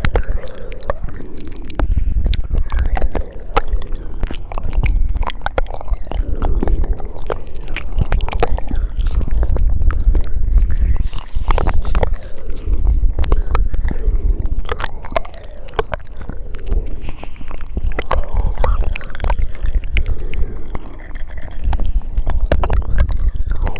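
Close-miked ASMR mouth sounds: wet clicks, smacks and tongue noises coming thick and fast, over a steady low rumble.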